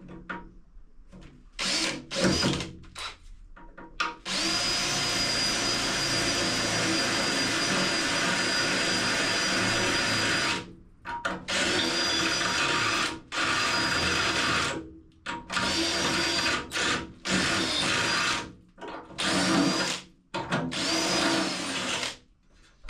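Electric drill boring a hole through the steel front panel of a car body, ready for a spot weld. It runs in a few short bursts, then one long steady run of about six seconds with a high whine, then a series of shorter bursts with pauses between them.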